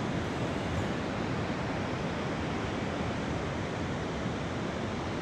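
Steady, unbroken rush of big ocean waves smashing in on the shore.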